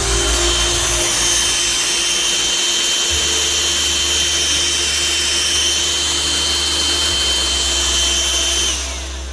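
Grundig 21.6 V cordless cyclonic vacuum cleaner running with a steady high whine over a loud rush of air, then switched off near the end, the whine dropping away.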